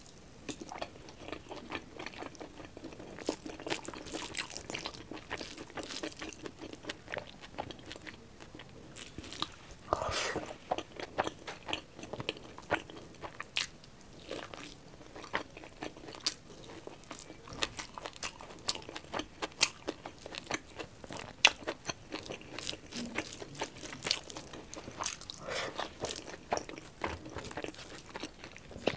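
Close-miked chewing and biting of pork curry and rice eaten by hand: a continuous run of many quick mouth clicks, with louder crunchy bites now and then.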